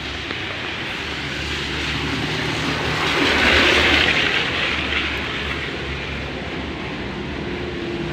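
A vehicle passing by: a hiss that swells to its loudest about three and a half seconds in and fades by five seconds, over a steady low hum.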